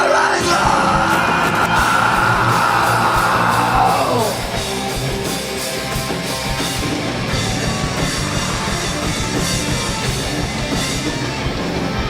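Live metalcore band playing loud, with a harsh screamed vocal held for about four seconds that drops off, then distorted guitars, bass and drums carrying on.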